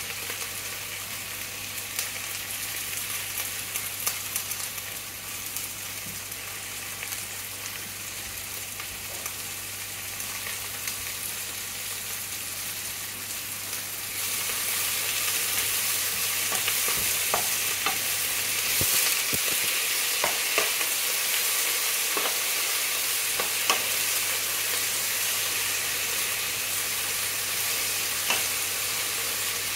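Cabbage, wiener sausages and corn sizzling in a frying pan, a steady hiss. About halfway through the sizzle gets louder as a wooden spatula starts tossing the food, with scattered light taps and scrapes against the pan.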